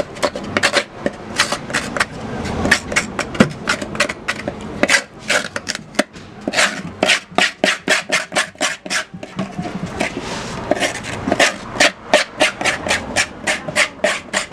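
A broken, cut-down pot spoon scraping the pulp out of the inside of a halved calabash gourd, in quick repeated strokes of about three to four a second.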